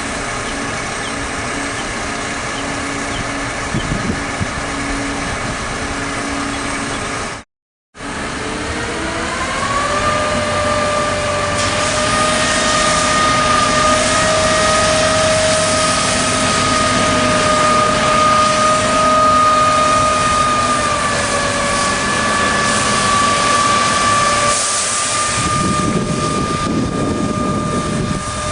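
Mack water truck's diesel engine running steadily, then, after a short gap, revving up and holding a higher speed. A steady rushing hiss, typical of water spraying from the cannon or spray bar, joins in a little later.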